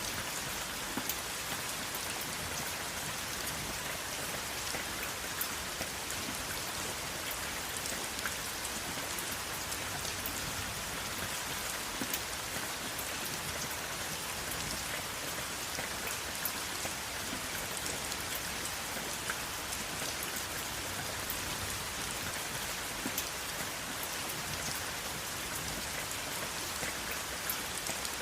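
Steady rain falling, an even hiss with scattered close drop ticks and no thunder.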